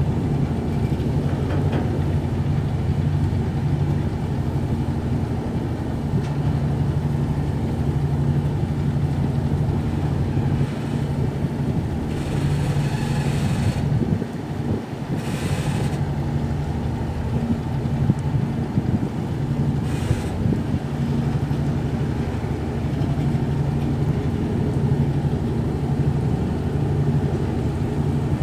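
High-speed passenger ferry's engines running steadily with a low, even hum. A few brief rushes of hiss come and go about halfway through.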